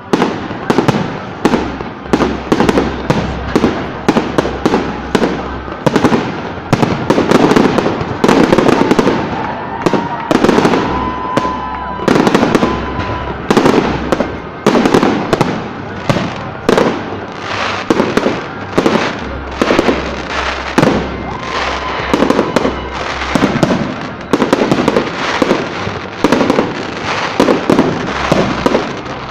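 Aerial fireworks display: a dense barrage of shell bursts, several loud bangs a second with crackle between them, that goes on without a break.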